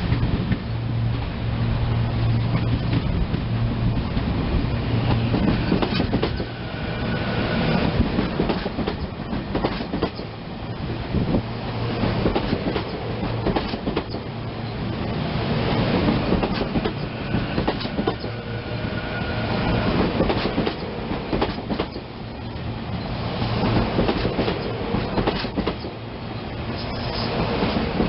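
SEPTA Silverliner electric multiple-unit commuter train passing at close range. Its wheels click over rail joints and switches, and the sound swells and eases every few seconds.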